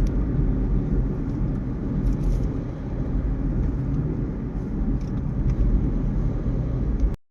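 Car on the road at speed: steady, loud rumble of tyres and engine, cutting off suddenly near the end.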